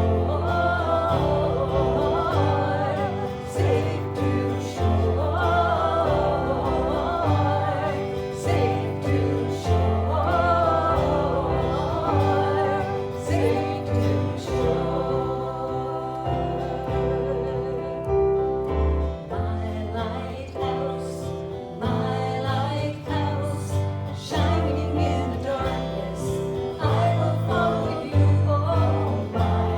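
Worship music: voices singing a gospel-style song over instrumental accompaniment with a steady bass line.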